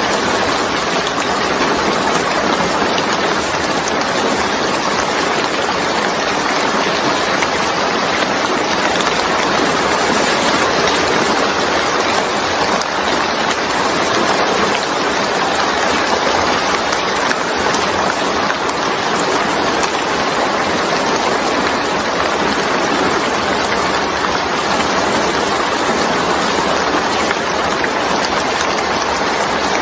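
Steady heavy rainfall, an even hiss of rain with no distinct drops or thunder standing out.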